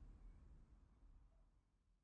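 Faint tail of a rolling thunder rumble, a deep low rumble fading away steadily.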